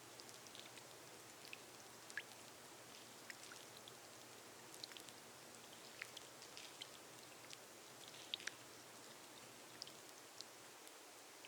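Rain on a glass roof: a faint steady hiss with individual drops ticking sharply at irregular moments, several each second.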